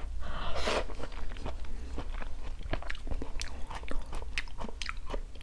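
A person chewing a mouthful of soup tomato, with irregular wet mouth clicks and smacks.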